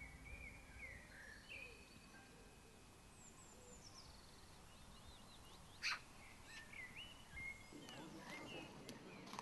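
Faint birdsong, with several short chirps and whistles over a low outdoor hush. A single sharp click comes about six seconds in, and a low murmur of people's voices starts near the end.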